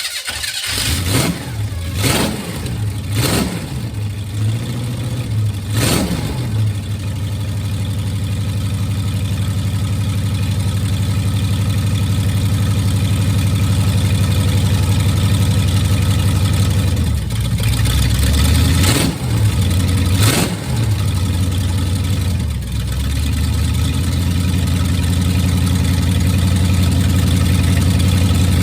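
Carbureted V8 engine of a rat trike, freshly fitted with new spark plugs and plug wires, running at a fast idle with several quick revs in the first few seconds and two more about two-thirds through. The idle is held up by the choke while the engine is still cold.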